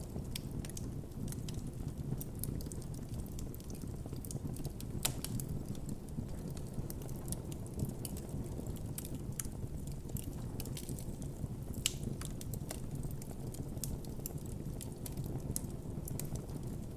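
Wood campfire burning, crackling with irregular sharp pops and snaps over a steady low rumble of the flames; two louder pops come about five seconds in and near twelve seconds in.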